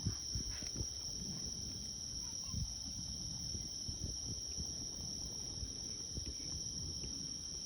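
Steady high-pitched chorus of night insects, crickets or katydids, trilling without a break, over a low uneven rumble.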